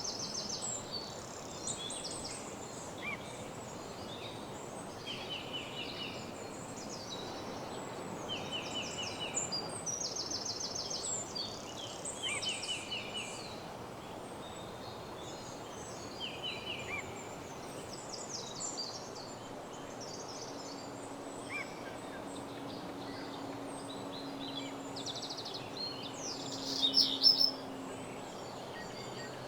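Woodland songbirds singing: short, rapidly repeated trilled phrases every second or two from several birds, over a steady background hiss. A louder, closer burst of song comes near the end.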